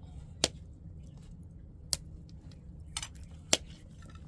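Four sharp clicks or light knocks, unevenly spaced, the third one doubled, over a steady low hum.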